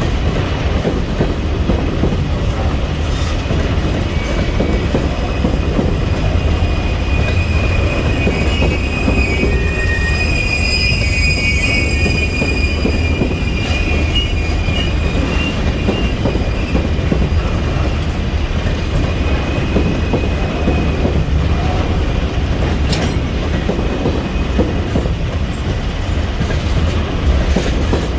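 Freight train rolling past with a steady rumble of wheels on the rails. High-pitched wheel squeal rises in the middle and lasts about ten seconds before fading back into the rumble.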